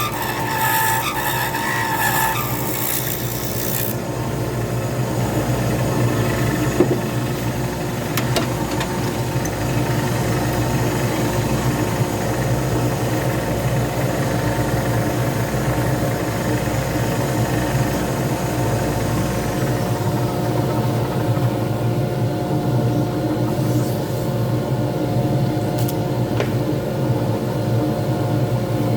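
Pen lathe running steadily with a hum, while something rubs and scrapes against the spinning resin pen blank, loudest for the first few seconds and lighter after that.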